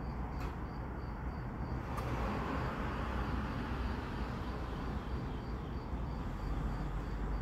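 Steady low rumble of a CSX mixed freight train on the track, swelling a little about two seconds in, with crickets chirping in a regular pulse behind it.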